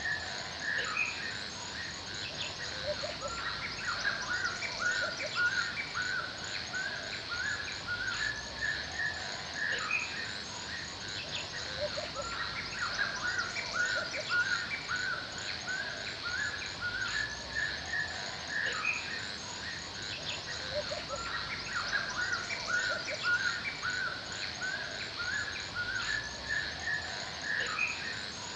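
Forest ambience: many birds chirping and singing in quick, overlapping short calls over a steady high hiss.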